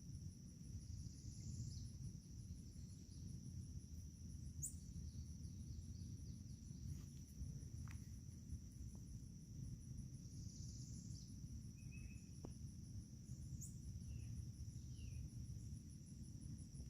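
Crickets or other insects trilling steadily in a continuous high-pitched chorus over a low, even rumble, with a couple of brief faint chirps partway through.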